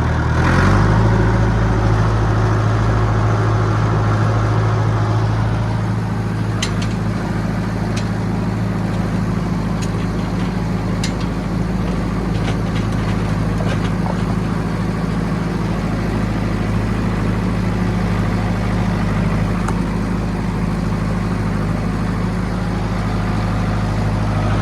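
John Deere 450B crawler dozer's diesel engine running steadily at high throttle while the dozer drives, with a few faint clicks.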